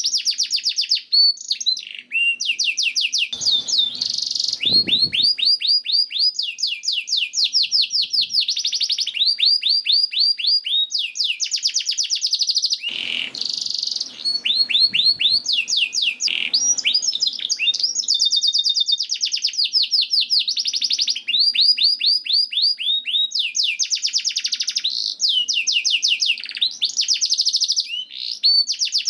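Domestic canary singing a continuous song of rapid trills: each phrase is a fast run of repeated high notes, changing to a new trill every second or two. There are a couple of brief bursts of noise, one about four seconds in and one near the middle.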